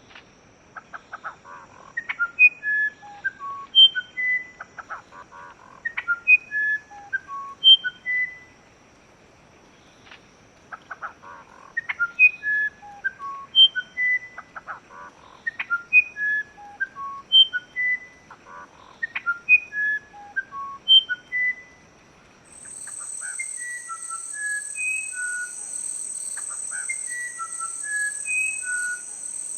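Songbird singing a repeated phrase of clear whistled notes that step down in pitch, mixed with short clicky notes, about every four seconds. Near the end another recording comes in, with a steady high insect drone behind another bird's falling whistled notes.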